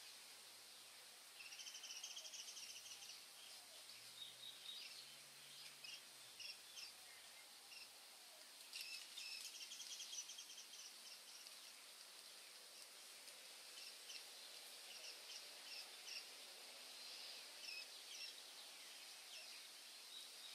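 Faint birdsong from several songbirds, chirping and trilling over a soft steady hiss of outdoor ambience, with a fast trill about two seconds in and another about nine seconds in.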